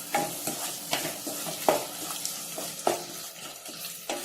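Onions with ginger-garlic paste and curry leaves sizzling as they fry in a pan, stirred with a few sharp scrapes against the pan. The onions are being sautéed down until soft and browned.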